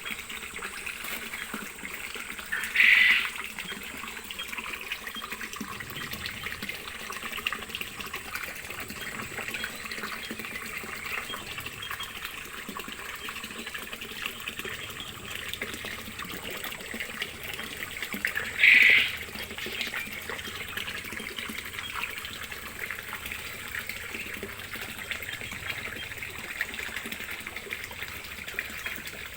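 Water running and trickling steadily, with two short, loud sounds about three seconds in and again near the twenty-second mark.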